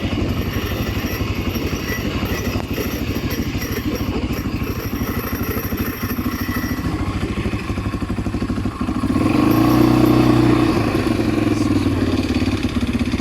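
ATV engine running steadily while riding. It grows louder for about two seconds, from roughly nine seconds in.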